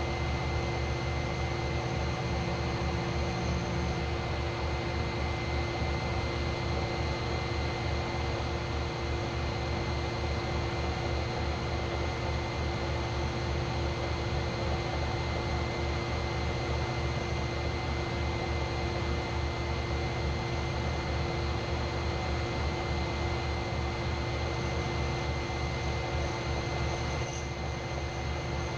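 A machine running steadily, with a constant hum and several steady whining tones over a fast even pulsing at the bottom. The level dips slightly near the end.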